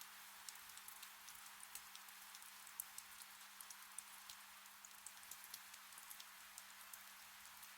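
Gentle rain falling in a forest: a soft, steady hiss with many individual drops ticking sharply on leaves and surfaces, and a faint steady hum underneath.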